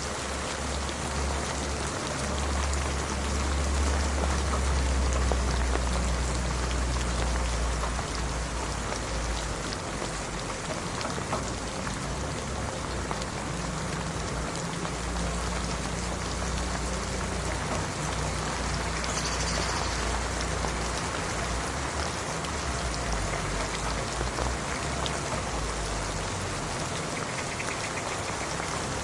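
Steady heavy rain: a dense hiss of countless drops on surfaces, with a low rumble underneath that swells a few seconds in and then settles.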